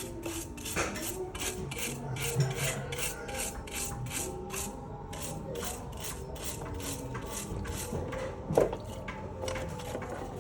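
Rhythmic back-and-forth rubbing strokes, like scrubbing or sanding by hand, about two to three a second, with a short pause around the middle. The strokes stop with a sharp knock near the end.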